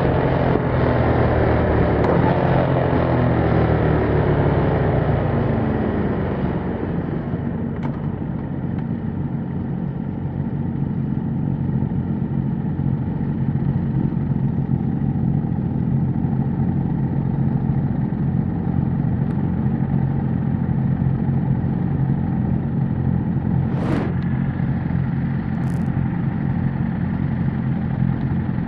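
A 2021 Yamaha MT-07's 689 cc parallel-twin running through its stock exhaust. The revs fall over the first several seconds, then hold low and steady. There is a single sharp click near the end.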